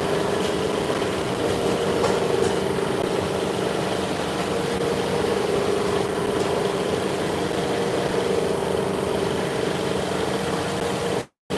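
Workshop machinery running with a steady, even hum. The sound drops out completely for a moment near the end.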